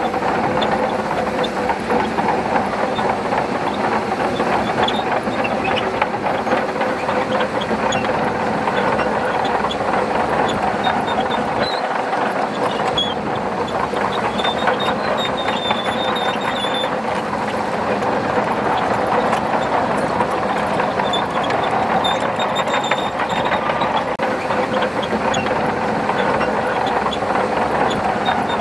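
Shantui bulldozer's diesel engine running steadily under load, with the clatter of its steel tracks.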